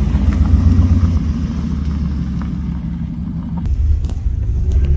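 Motor vehicle engine running with a low, steady rumble; the steady note drops away about three and a half seconds in.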